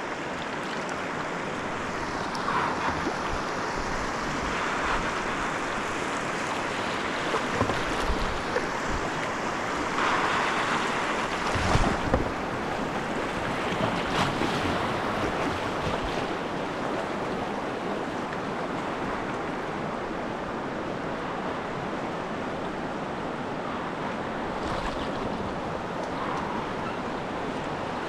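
Whitewater river rushing around a kayak, a steady rush with a few louder splashes and knocks around the middle.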